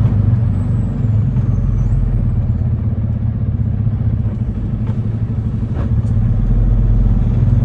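Semi truck's diesel engine running under way at low speed, heard from inside the cab, easing off in the middle and pulling harder again near the end.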